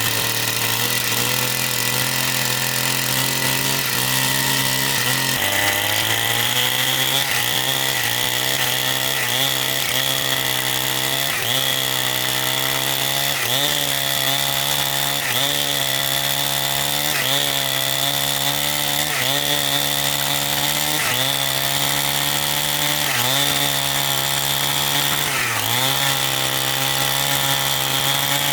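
Two-stroke chainsaw running at high speed and cutting. Its pitch steps up about five seconds in, then dips briefly and recovers about every two seconds as the chain bites under load.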